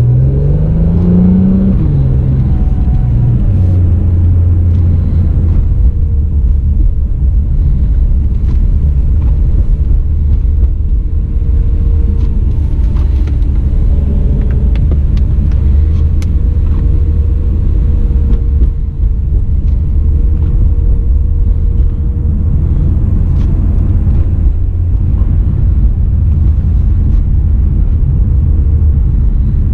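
2017 Acura NSX's twin-turbo V6 rising in pitch as the car accelerates for the first couple of seconds, then stepping down through quick upshifts. It then settles into a steady low drone at cruising revs, heard from inside the cabin with road noise.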